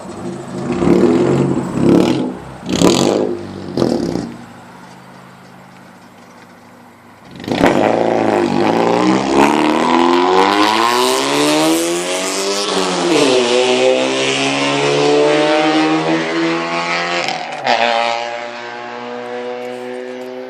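Car exhaust with the catalytic converter removed, crazy loud. The engine is blipped three or four times in quick sharp revs and falls back to idle. Then it revs up in a long climb that dips briefly, climbs again and holds, before dropping suddenly to a lower steady note about three seconds from the end.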